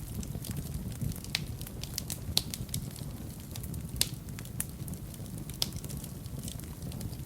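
Wood fire in a fireplace crackling, with irregular sharp pops and snaps over a steady low rumble of the flames. The loudest pops come about two and a half and four seconds in.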